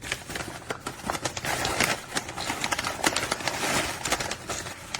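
Plastic pouch rustling and small dry pellets clicking as they are scooped out of the bag, with many quick irregular clicks throughout.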